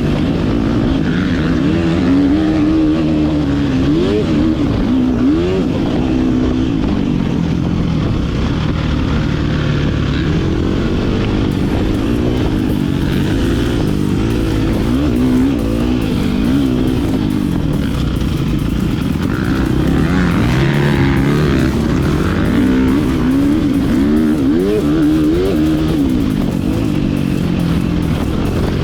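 Motocross bike engine being ridden hard around a dirt track, its pitch rising and falling over and over as the throttle is opened and shut through the corners and jumps.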